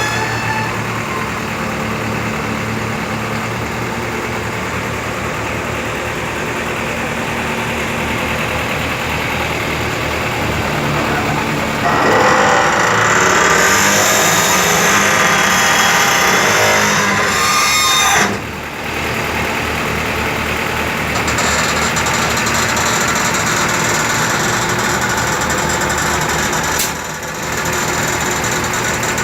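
An engine running steadily. It gets louder for about six seconds midway, then drops off sharply; a second short dip comes near the end.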